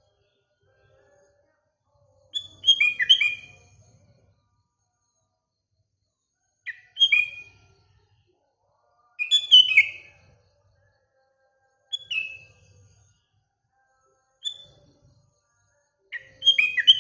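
Sooty-headed bulbul (kutilang) singing short phrases of a few quick, mostly falling notes, six times, with pauses of two to four seconds between them.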